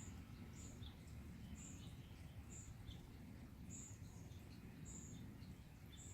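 Faint nature ambience: short, high bird chirps about once a second, some in quick pairs, over a steady low rumble.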